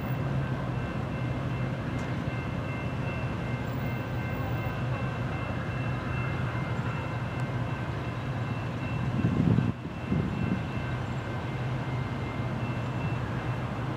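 BNSF diesel locomotive pulling a work train of freight cars along the track, a steady engine rumble mixed with the noise of the rolling cars. A brief louder low rumble comes about nine seconds in.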